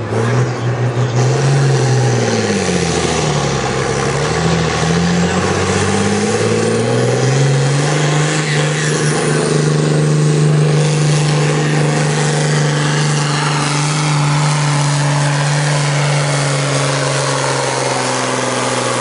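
John Deere 6030 tractor's six-cylinder diesel engine working hard while pulling the sled. Its pitch sags about two seconds in, wavers and climbs back, then holds steady and loud for the rest of the pull.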